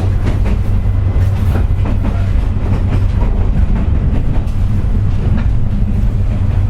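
Interior running sound of a JR West 201 series electric train at speed, heard inside the motor car: a steady low drone with rapid wheel clicks over rail joints.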